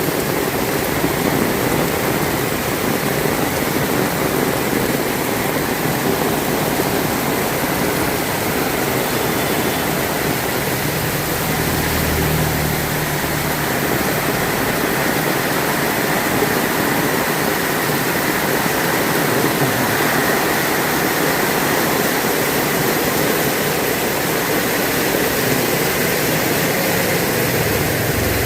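Heavy rain falling steadily, a dense even hiss. A brief low hum rises and fades near the middle.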